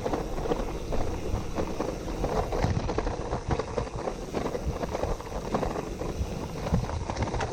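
Gravel bike rolling over a rough dirt and gravel track: tyres crunching and the bike rattling with many small irregular knocks, over a low steady rumble.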